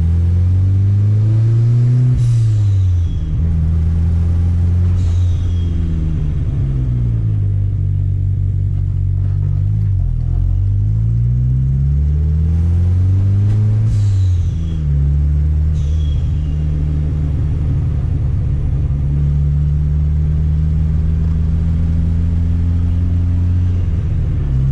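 Turbocharged Chevette four-cylinder engine revved up and let fall back several times, running steadily between revs. A short falling whistle comes each time the revs drop.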